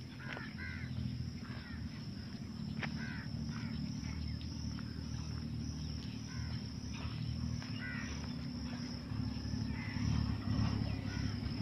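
Birds calling in short chirps again and again, over a steady high-pitched drone and a low rumble.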